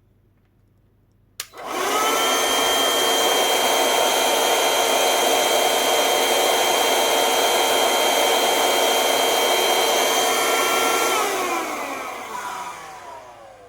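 Parkside PHSSA 20-Li A1 cordless vacuum cleaner switched on with a click about a second and a half in, its motor spinning up to a steady high whine with several held tones while its turbine pulls against a vacuum gauge. Near the end it is switched off and spins down, the tones falling away.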